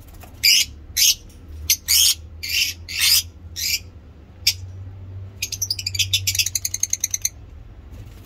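Frightened lovebirds calling with shrill, sharp calls about every half second, then a fast run of short chattering notes around five to seven seconds in.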